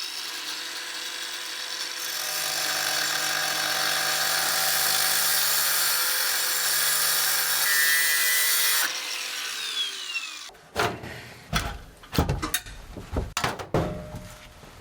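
Power tool cutting through the old rusted exhaust pipe with a steady high-pitched whine. It stops about nine seconds in and winds down. Then comes a run of sharp knocks and clatters.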